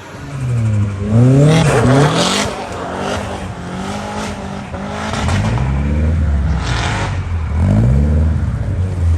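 Car engine revving: the pitch climbs and drops a few times, then settles into a steadier, harder-working note with another rise near the end.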